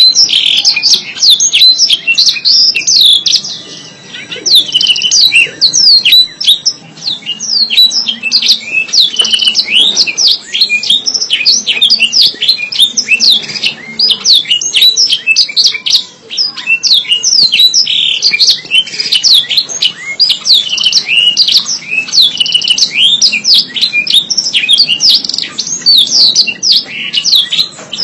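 Domestic canary singing a long, fast song of rapid chirps, trills and sweeping whistles, with brief breaks about 4 and 16 seconds in.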